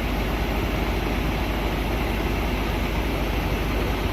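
Heavy recovery truck's engine running steadily, driving its hydraulics while the lifting gear moves slowly. A low, even rumble.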